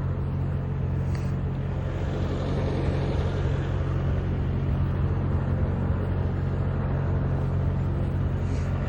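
A motor vehicle's engine running steadily with an even low hum, its pitch and level unchanging.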